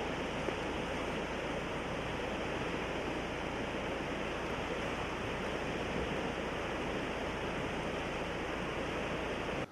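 Rushing water of a river or stream: a steady, even noise that cuts off suddenly.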